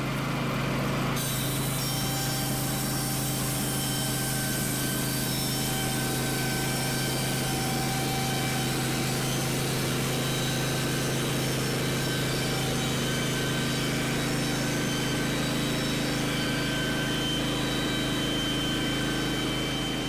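Woodland Mills bandsaw sawmill's gas engine running steadily under load while the blade cuts through a log. The cut brightens about a second in.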